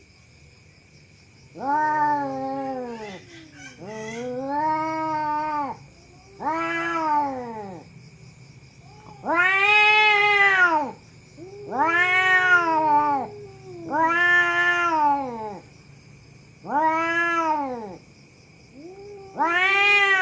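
Domestic cat yowling (caterwauling): a series of about eight long, drawn-out calls, each rising and then falling in pitch, with short pauses between them.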